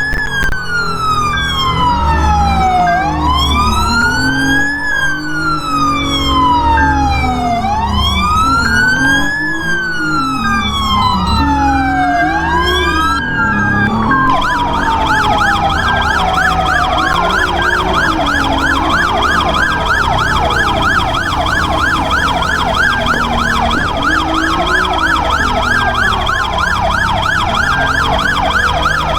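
Police car siren on a slow rising-and-falling wail that switches about halfway through to a fast yelp, with another siren sweeping out of step alongside it.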